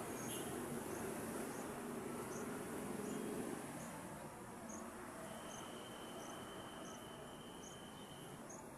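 Faint, high, short chirps repeating about twice a second, with a thin steady high tone in the second half.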